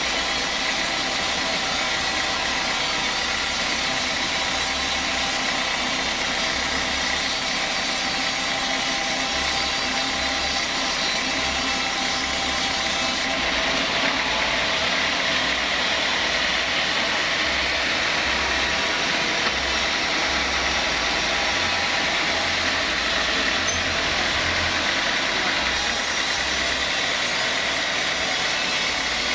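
Sawmill machinery running steadily, a dense mechanical noise with a faint high whine held throughout.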